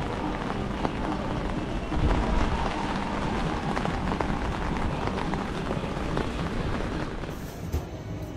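Steady rain falling, a dense hiss of drops with many small ticks over a low rumble. The rain sound thins near the end.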